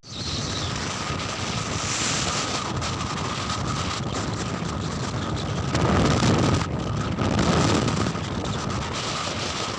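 Wind buffeting the microphone: a steady rushing that swells twice in the second half.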